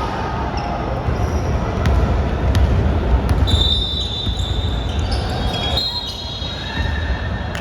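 A basketball bouncing on the court of an echoing gym, with a few sharp knocks and some high squeaks midway through.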